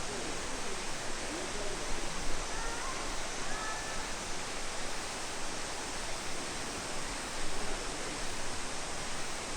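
Steady rush of falling water from a waterfall and stream. A few faint, short gliding calls sound over it about two and a half to four seconds in.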